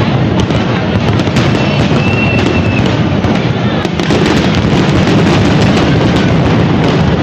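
Japanese fireworks display: a dense, continuous run of bursts and crackling, with a short whistle about two seconds in.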